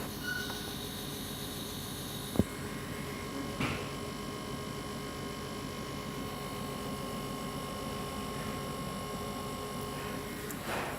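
Kamach II 1060 laser cutting and engraving machine running: a steady hum with a faint high, even whine and a sharp click about two and a half seconds in.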